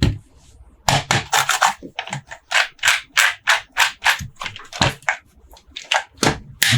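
Quick, evenly repeated scraping strokes on toy packaging, about four a second, starting about a second in.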